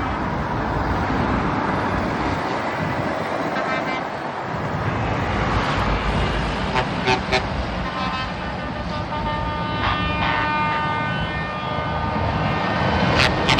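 Trucks pulling out with their engines running, and air horns sounding: a few short toots about seven seconds in, then a held horn chord of several notes together near the end.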